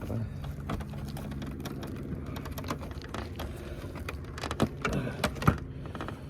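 Plastic bumper-cover parts being handled and pushed into place: scattered light clicks and taps, with two sharper knocks near the end, over a steady low hum.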